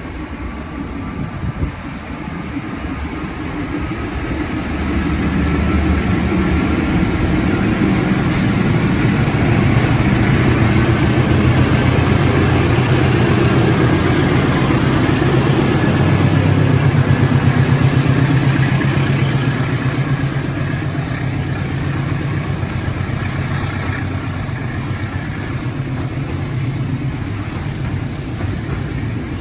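Diesel locomotive of a container freight train running past, its heavy engine sound building to a peak in the middle and then easing off. A single sharp click about eight seconds in.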